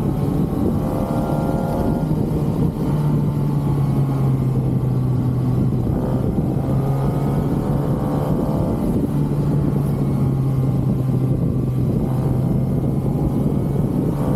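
2023 Kawasaki ZX-6R's inline-four engine through its stock exhaust, running at fairly steady revs while cruising, with pitch shifting slightly, over a steady rush of wind and road noise.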